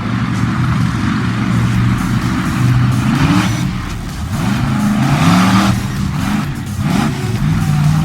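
Monster truck engine revving up and down repeatedly, its pitch rising and falling several times.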